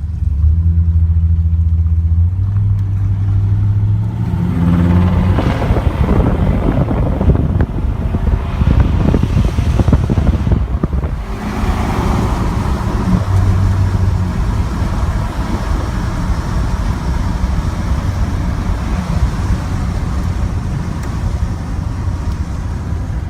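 Chevrolet Silverado pickup with a dual performance exhaust accelerating down the road: the engine note climbs in steps over the first few seconds, then a rush of wind and road noise, settling into steady running.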